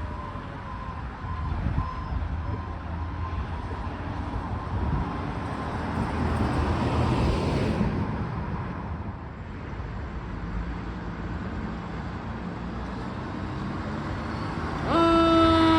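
Fire engine's engine running and road noise as the apparatus moves between siren runs, swelling for a couple of seconds midway. About a second before the end, its electronic siren starts up with a steady tone that then begins to rise.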